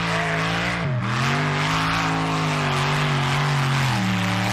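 Competition pulling tractor's engine running hard under load, loud and steady. Its pitch dips briefly and recovers about a second in, then changes note again near the end.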